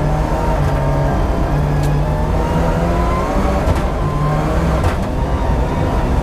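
Rally car engine pulling hard, heard from inside the cabin, its pitch climbing and dropping a little as the revs change, with a few sharp clicks or knocks along the way.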